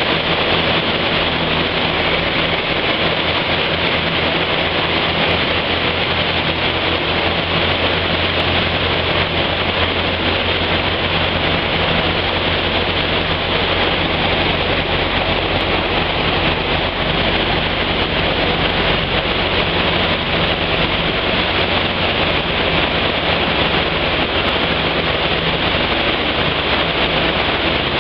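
Car running on a chassis dynamometer at a steady speed: a loud, even rushing noise with a low steady hum underneath, no change in pitch.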